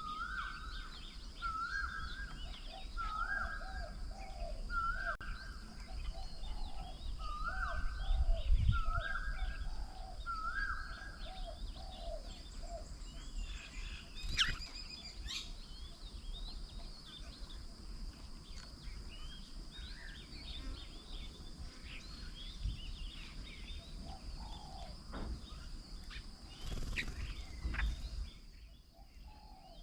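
Garden birds calling: one bird repeats the same short call about once a second for roughly the first ten seconds, while other birds chirp and twitter throughout. A steady high-pitched insect-like hum runs underneath, and there is a brief low rumble about eight seconds in.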